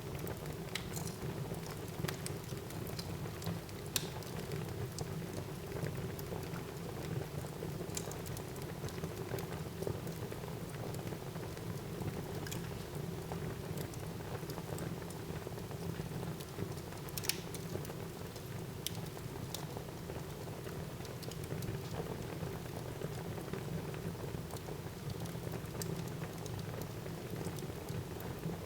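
Wood fire burning in a fireplace: a steady soft hiss with scattered sharp crackles and pops, one of the sharpest about two thirds of the way through.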